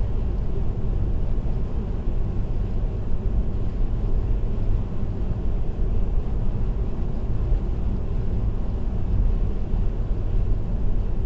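Car cruising at highway speed, with a steady low rumble of tyre and road noise and engine.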